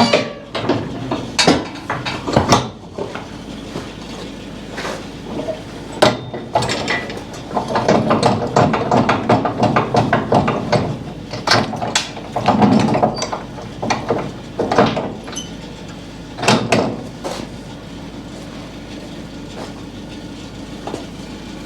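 Irregular rattling, clanking and knocking of moving farm equipment, busiest in the middle and easing off near the end.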